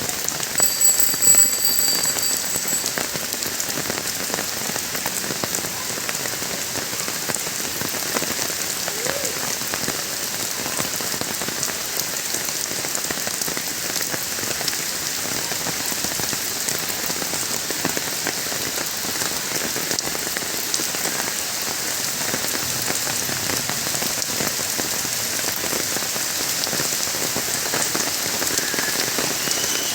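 Steady rain falling on a surface, a dense patter of individual drop ticks. About a second in, a thin high-pitched tone sounds for roughly two seconds.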